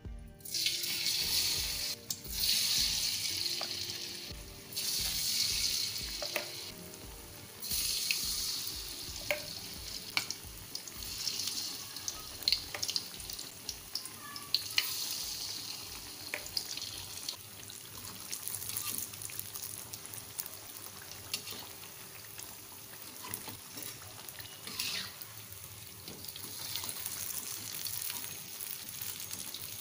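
Batter-coated tempeh slices frying in hot oil in a wok. The sizzle surges loudly four times in the first nine seconds as pieces go into the oil, then settles to a steady frying hiss with scattered sharp pops.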